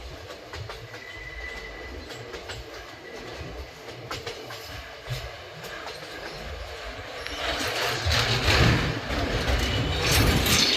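Train running along the track: a steady low rumble with scattered clicks of the wheels on the rails, growing clearly louder about seven seconds in.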